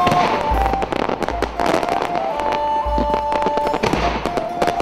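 Fireworks bursting and crackling in dense, rapid bangs over music with long held notes, the soundtrack of a pyromusical show.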